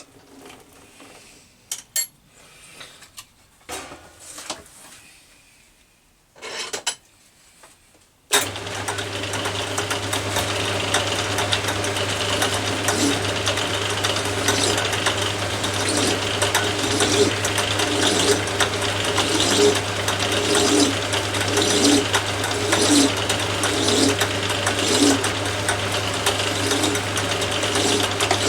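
A few small clicks and knocks of tools being handled. Then, about eight seconds in, an Atlas 10 metal lathe switches on and runs steadily with a low hum. Over it comes a regular stroke about once a second as a file is worked against the spinning brass.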